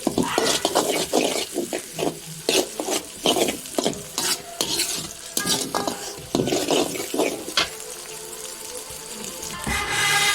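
A spoon stirring and scraping through onion, tomato, green chillies, garlic and ginger frying in oil in a pan, with a sizzle underneath. The stirring strokes stop a little over seven seconds in, leaving the sizzle, and a pitched, music-like sound comes in near the end.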